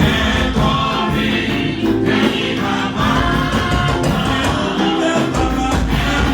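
Church choir singing a gospel anthem in full voice, with instrumental backing.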